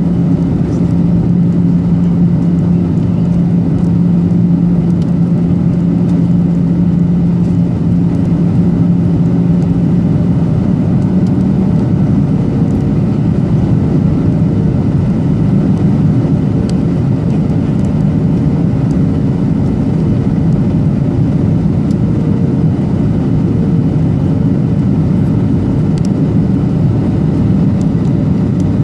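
Cabin noise aboard a Boeing 737-800 on approach: the steady drone of its CFM56-7B turbofan engines mixed with the rush of airflow. A low steady hum in it fades out about ten seconds in, and a faint higher tone comes in soon after.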